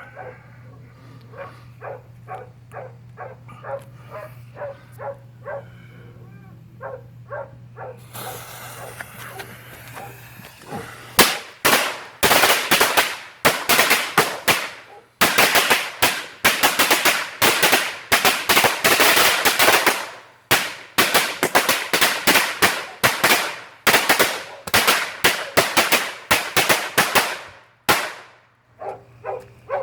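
A Black Cat 100-shot strip of firecrackers going off in a rapid, uneven string of loud cracks for about seventeen seconds, with two brief lulls. Before the bangs begin, a hiss runs for about three seconds, as of the fuse burning.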